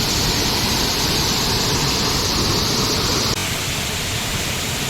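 Steady rushing of a waterfall, a dense even roar of falling water that steps down slightly in level about three and a half seconds in.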